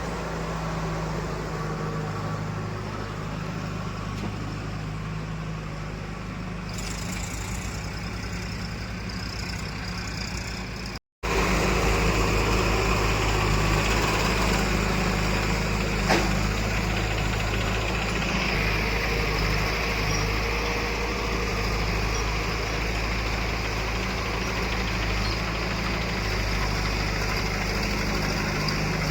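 Heavy diesel engine of earth-moving machinery running steadily. A brief cut-out about eleven seconds in is followed by a louder, nearer engine, with a single sharp knock a few seconds later.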